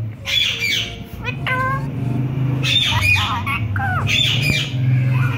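Indian ringneck parrots giving repeated harsh squawks and short gliding whistled calls, several in quick succession, over a steady low hum.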